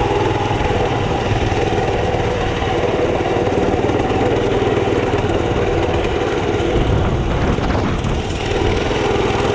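Mini bike's small engine running at a fairly steady speed.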